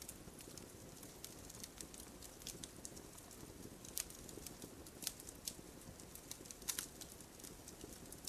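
Campfire crackling softly: irregular sharp pops and snaps over a faint hiss, with a few louder pops about four, five and nearly seven seconds in.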